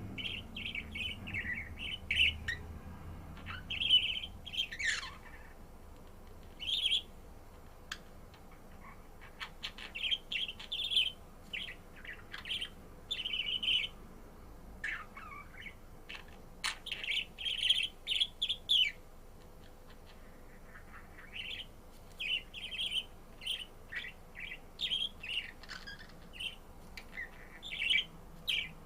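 Budgerigar chirping and warbling in short, irregular bursts of high chirps, with a few quick falling calls.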